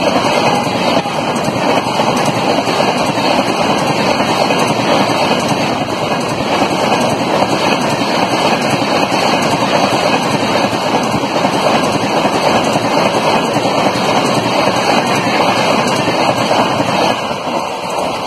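Coaches of an Indian express train rushing past at speed: a steady, loud rush of wheels on rails and air, easing off near the end as the tail of the train goes by.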